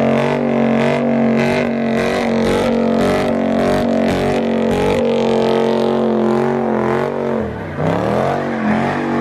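Car engine held at high revs at a steady pitch for several seconds; about seven and a half seconds in the revs drop sharply and then climb again.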